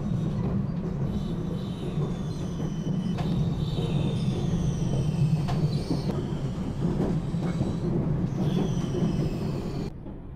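Regional passenger train running at speed, heard from inside the carriage: a steady low rumble of the running gear on the rails, with faint high squeals coming and going. Near the end the sound drops quieter and duller.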